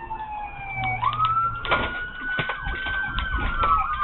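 Police car siren wailing: the tone falls, jumps back up about a second in, climbs slowly, then starts falling again near the end. Scattered clicks and knocks sound over it.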